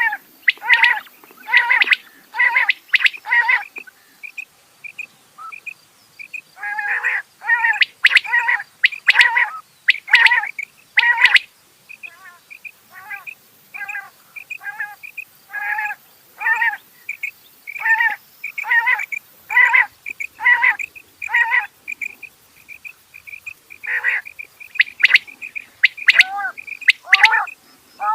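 Rain quail calling: a rapid series of short, sharp notes, grouped in bursts with brief pauses, and some fainter thin notes between the bursts.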